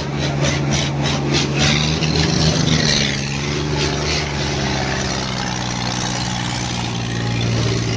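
Diesel tractor engines running steadily at high revs, as in a tractor tug-of-war pull, with a quick series of clicks over the first two seconds.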